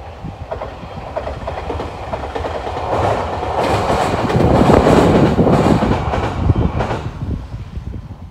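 Electric express train passing along the line, its wheels clattering over the rail joints. The sound builds to its loudest about halfway through and fades near the end.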